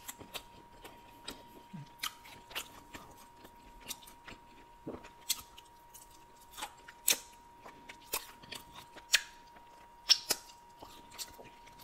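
Close-miked chewing of a boneless buffalo chicken wing, with irregular wet mouth clicks and smacks, a few louder ones in the second half. Finger-licking near the end.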